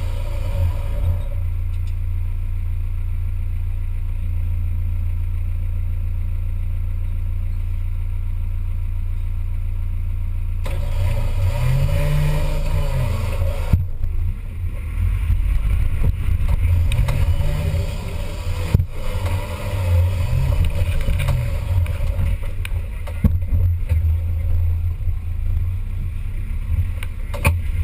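Off-road 4x4 competition vehicle's engine running steadily, then revved up and down several times from about halfway through, with scattered knocks and clatter.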